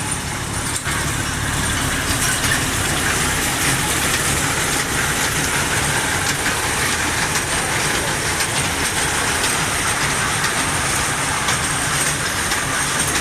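A small ride-on train running steadily while carrying passengers, heard from aboard: a constant engine drone with a thin high whine and a busy rattle of small clicks.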